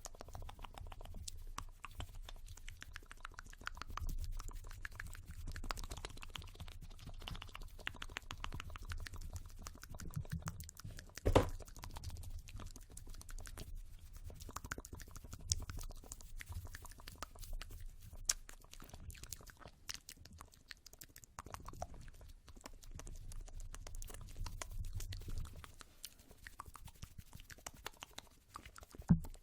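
ASMR fast tapping and hand sounds close to the microphone: a dense, rapid patter of small clicks and taps with a low rumble under it, and two sharper knocks, one about eleven seconds in and one near the end.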